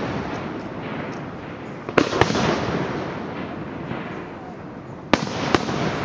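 Fireworks display: aerial shells bursting in two pairs of sharp bangs, about two seconds in and again about five seconds in, each pair followed by a lingering crackle and echo that slowly fades.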